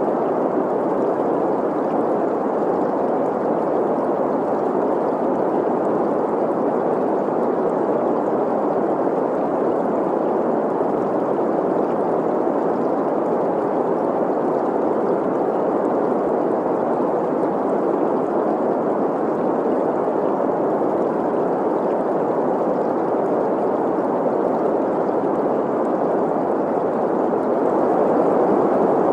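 Steady green noise, a smooth hiss centred in the middle of the range, blended with a flowing stream.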